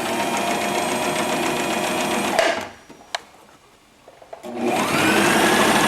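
Electric sewing machine stitching a seam at a steady speed. It stops about two and a half seconds in, a single click sounds in the pause, then it starts again and picks up speed.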